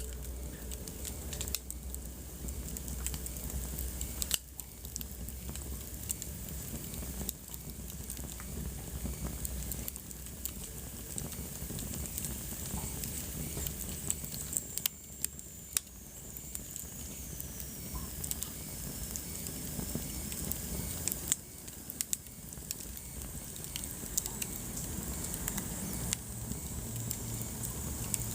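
Wood fire burning in a fireplace, crackling with frequent, irregular small pops over a steady hiss. About halfway through, a faint high whistle slowly falls in pitch.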